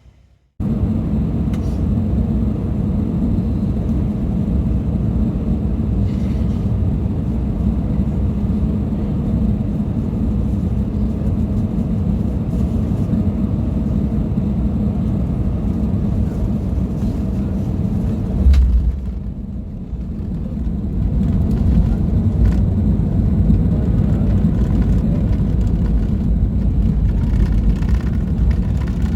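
Jet airliner landing, heard from inside the passenger cabin: a loud, steady rumble of engines, airflow and runway. About 18 seconds in there is a heavy low thump, then the noise drops and builds up again.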